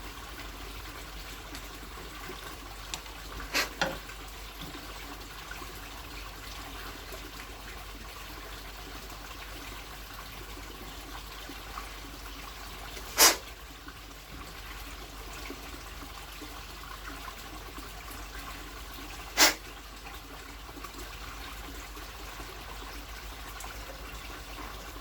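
Metal parts of a kerosene pressure lantern being handled and fitted together during reassembly: three short, sharp knocks, the loudest in the middle, over a steady hiss.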